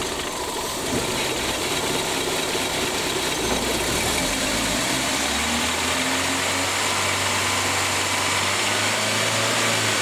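Car engine running with second gear engaged, driving the freely spinning front hub and brake disc of a car with the wheel off. The engine speed rises about halfway through, then holds steady. This is the test for a warped brake disc with runout.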